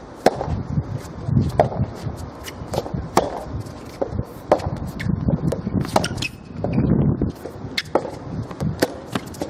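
Soft tennis play: a run of sharp, hollow pocks and knocks as the rubber ball is struck by rackets and bounces on the court, about one to two a second.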